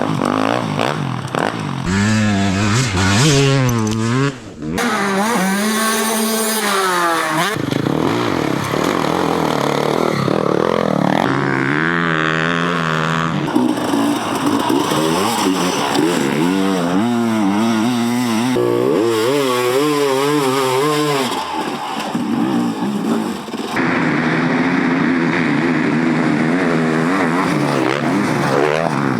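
Off-road racing motorcycle engines revving hard, pitch rising and falling with throttle and gear changes, in several short clips that change abruptly.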